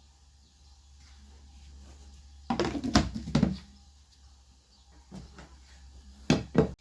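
Kitchenware being handled: a burst of knocking and clattering about two and a half seconds in, then two sharp knocks just before the end, over a low steady hum.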